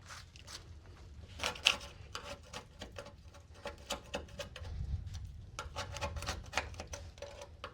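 Hand scraping on the steel of a 1967 Volkswagen chassis: irregular scrapes and clicks, a few of them sharper, as old material is worked off the metal.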